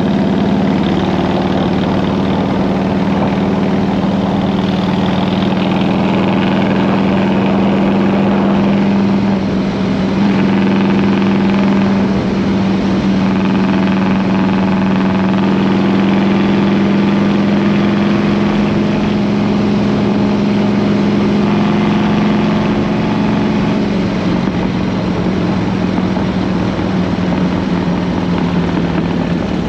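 Harley-Davidson Road King's V-twin engine and exhaust running steadily at speed, with wind rushing over the microphone. It dips briefly about nine seconds in and eases a little near the end.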